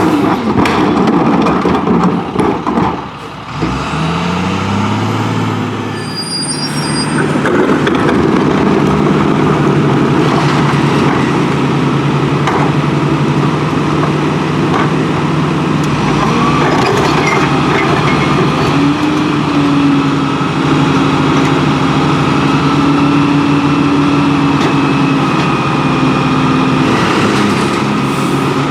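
International New Way Viper garbage truck working: its diesel engine runs steadily at raised speed, with a brief rise in engine pitch a few seconds in. A steady higher whine joins about two-thirds of the way through.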